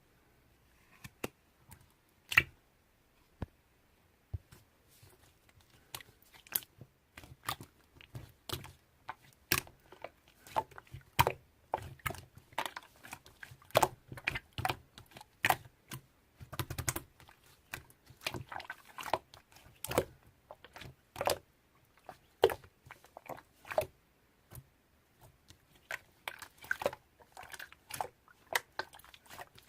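Many short, sharp clicks and crunches close to the microphone, a few per second in an uneven rhythm, starting about a second in.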